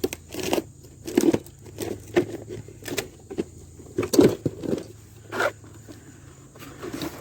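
Irregular light clicks, knocks and rustling of parts and tools being handled, with the loudest knock about four seconds in.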